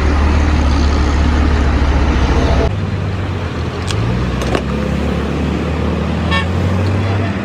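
Heavy vehicle engine running with a steady low hum amid road traffic. The sound changes abruptly about two and a half seconds in to a slightly higher engine note, and a few short clicks follow.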